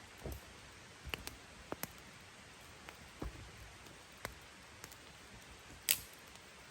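Scattered faint clicks and ticks over a low steady hiss, with one sharper click about six seconds in.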